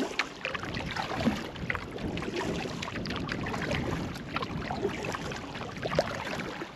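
Canoe paddle strokes in lake water: steady splashing and dripping, with scattered small splashes throughout.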